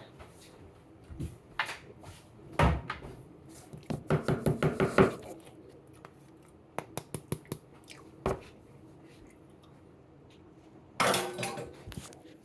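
Dishes and utensils being handled in a kitchen: scattered knocks and clicks, a quick run of about seven taps around four seconds in, and a louder clatter near the end.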